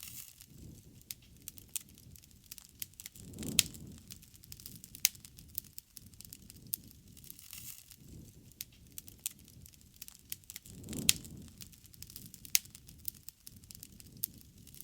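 Wood bonfire crackling, with irregular sharp pops and snaps. Two louder pops come about 3.5 and 11 seconds in, each over a brief low rumble.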